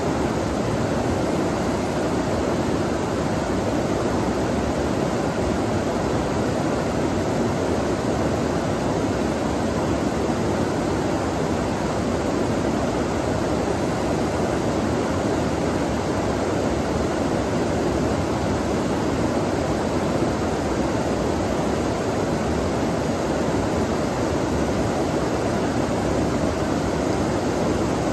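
Stream water flowing steadily, a constant rushing with no breaks or separate splashes.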